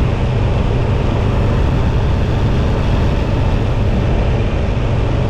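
Riding noise from a Buell XB12R Firebolt motorcycle: a steady rush of wind over the microphone with a low rumble underneath.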